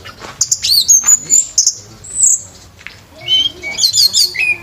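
Orange-headed thrush singing a fast, varied song of clear whistled notes with quick rising and falling glides, breaking into a rapid run of short notes near the end.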